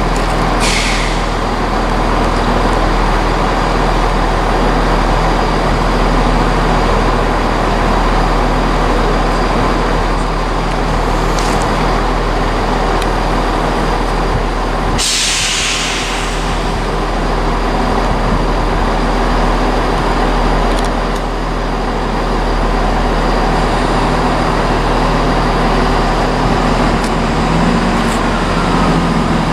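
Diesel multiple unit's engine idling steadily at the platform, with short hisses of released air, the biggest about fifteen seconds in.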